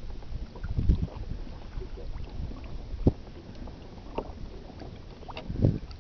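Water lapping and slapping against a kayak's hull, with wind buffeting the microphone and three dull low thumps: one about a second in, one about three seconds in, and a longer one near the end.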